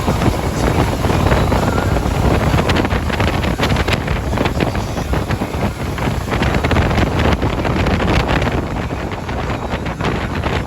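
A boat running at high speed, with heavy wind noise buffeting the microphone in constant gusts over the rush of the hull and motor.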